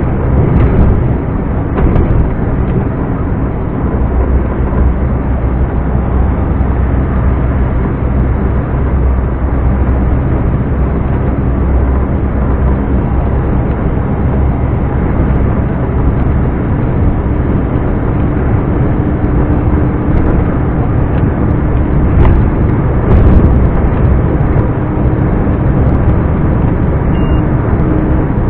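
Scania R420 truck's turbocharged straight-six diesel engine running steadily while driving, a loud low drone with a few short knocks over it.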